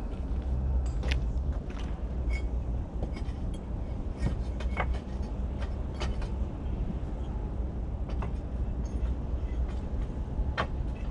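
Bricks being set down and knocked against one another as a fireplace is dry-laid without mortar, giving scattered sharp knocks every second or two over a steady low rumble.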